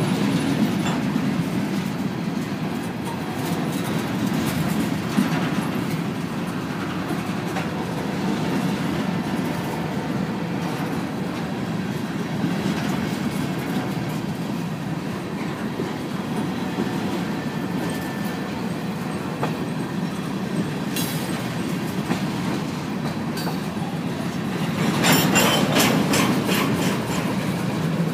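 Freight train's covered hopper cars rolling past: a steady rumble of steel wheels on rail with a rhythmic clickety-clack. The clatter grows louder for a couple of seconds near the end.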